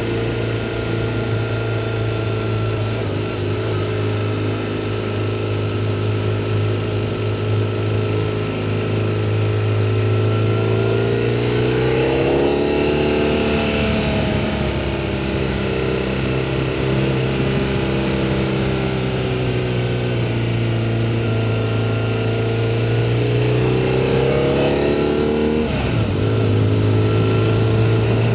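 BMW R1200GS motorcycle's flat-twin boxer engine running steadily. Its pitch rises and falls twice, about halfway through and again near the end.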